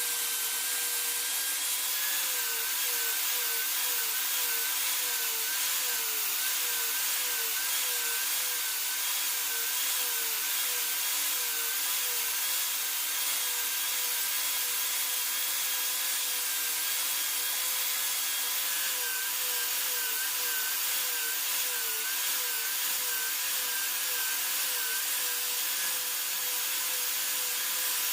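Electric power tool running steadily with a whine that wavers in pitch roughly once or twice a second as material is worked against it, with a rasping hiss of grinding or sanding.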